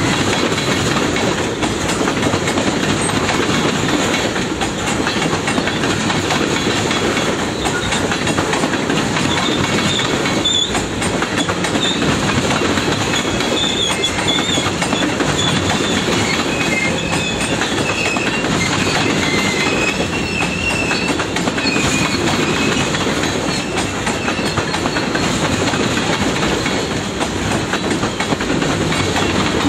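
CSX freight train cars rolling steadily past, wheels clicking over the rail joints. In the middle stretch, thin, wavering wheel squeal rises over the rumble.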